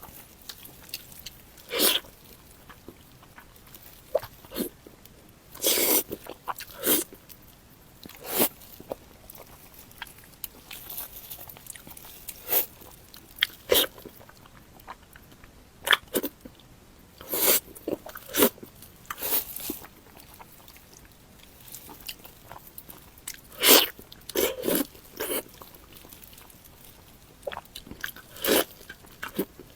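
A person biting and chewing food close to the microphone: sharp crunchy bites and wet chewing sounds at irregular intervals, a second or several apart.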